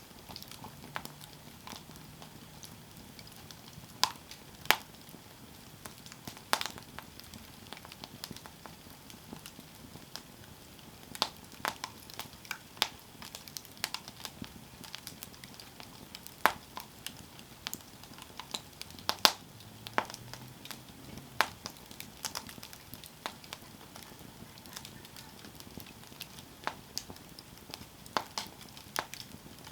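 Campfire burning, with irregular sharp crackles and pops of wood over a soft hiss of flame.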